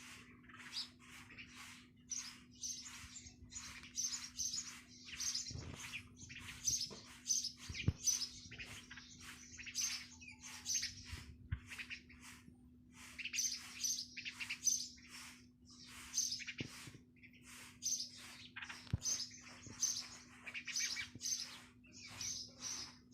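Bird chirping continuously in quick runs of short, high chirps over a steady low hum.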